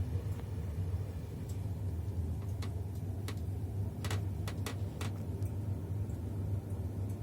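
Doğu Ekspresi passenger train running: a steady low rumble, with a handful of sharp clicks and rattles about halfway through.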